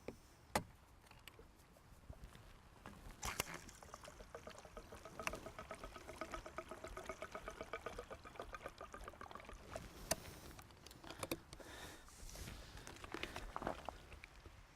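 Gasoline being poured into a four-stroke string trimmer's empty fuel tank: a faint trickling, gurgling pour through the middle few seconds, with a few sharp clicks and knocks of the can and filler cap before and after.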